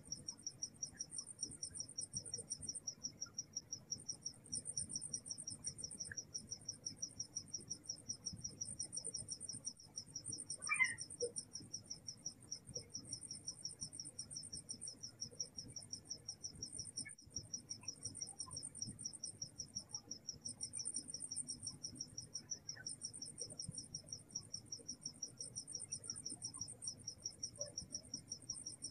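Crickets and other insects chirping: one in a steady, rapid pulse of chirps, another trilling higher with short breaks. About eleven seconds in, a brief squeak rises over them.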